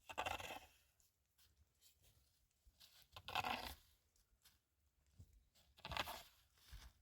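Three short bursts of rustling handling noise, about three seconds apart.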